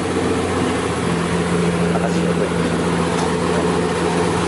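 Supercar engine idling with a steady note.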